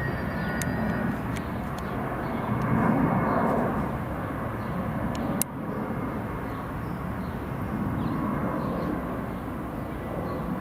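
Airplane flying over, a steady engine rumble. There is a single sharp click about halfway through.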